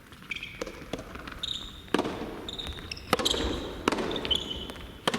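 Soft tennis rally: the soft rubber ball is struck and bounces in a string of sharp knocks, with the players' shoes squeaking on the court floor in between.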